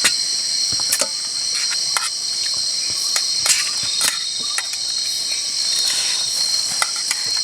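A loud, steady chorus of night insects shrilling in a high register, with scattered small sharp clicks and taps over it.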